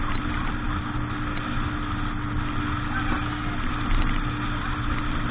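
Motorboat engine running at a steady, unchanging pitch, with a constant rush of noise over it.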